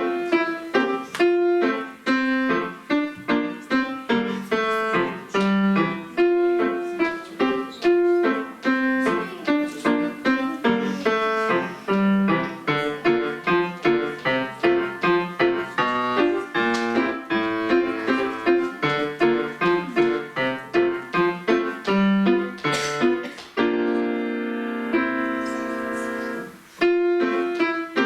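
Solo piano playing a lively piece in quick, evenly paced notes. Near the end a held chord rings for about three seconds before the quick notes start again.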